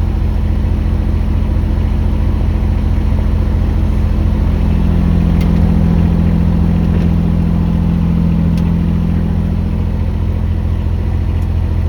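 Mini excavator's engine running steadily, growing louder for a few seconds in the middle before settling back.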